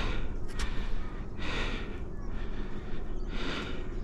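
A man breathing heavily and sighing close to the microphone, a few slow rushes of breath, with a sharp click about half a second in.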